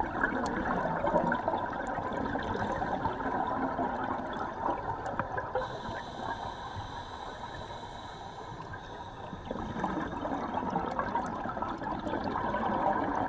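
Scuba diver's exhaled air bubbling out of the regulator underwater, a gurgling rush that swells, eases off in the middle and swells again near the end.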